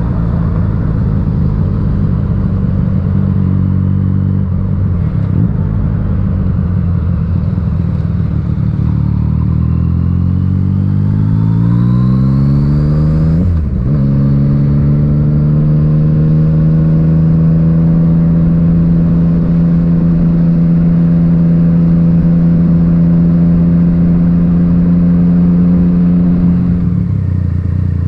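Yamaha MT-09's three-cylinder engine through an Akrapovic titanium exhaust, heard onboard while riding: the engine note climbs steadily as the bike accelerates, breaks sharply at a gear change about halfway through, then holds a steady cruising note until the revs drop near the end.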